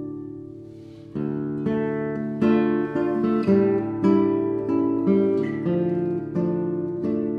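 Background music: an acoustic guitar playing chords. After a short fading lull, new chords are struck about every half second to second.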